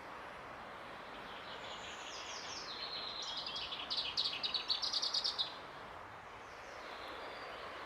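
A songbird sings one phrase of quick notes that step down in pitch and end in a fast run of repeated notes, then a fainter short phrase. A steady background hiss of outdoor noise runs beneath it.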